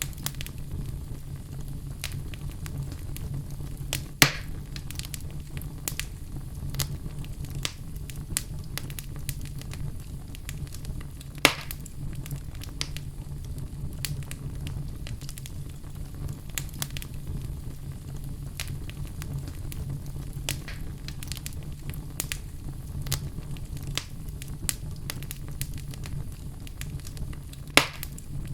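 Crackling wood fire over a steady low rumble, with many small snaps and three louder pops.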